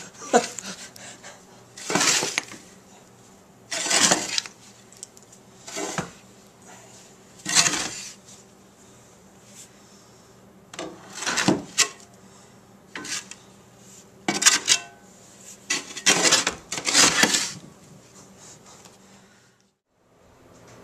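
Snow shovel scraping and scooping snow, with a stroke about every two seconds.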